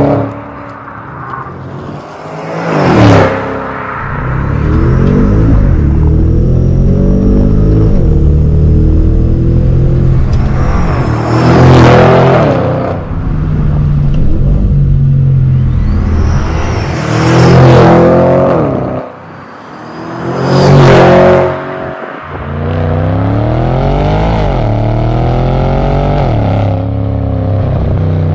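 Audi S6's 4.0-litre twin-turbo V8 exhaust, running steadily with about five short, very loud surges spread through. The revs rise and fall repeatedly near the end.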